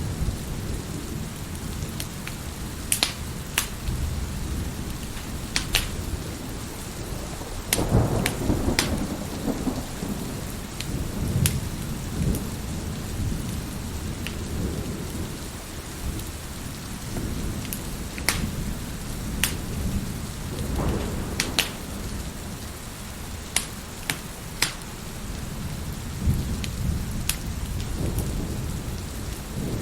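Wood fire crackling with scattered sharp pops, over steady heavy rain, with low rolls of thunder swelling several times.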